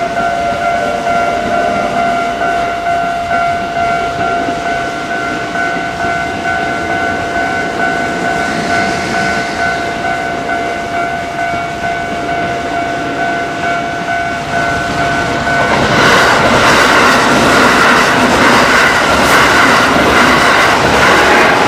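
Japanese level-crossing warning bell ringing steadily over the rumble of a Kintetsu train, then, about three quarters of the way through, a louder train passes across the crossing with wheels clattering over the rail joints.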